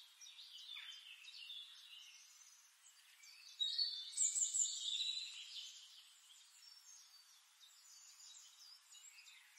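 Birds chirping and singing, with several high calls overlapping. A louder run of song comes about three and a half seconds in and lasts a couple of seconds.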